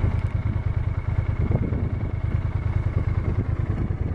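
Yamaha TDM900's parallel-twin engine running steadily at low revs, a fast, even low pulsing.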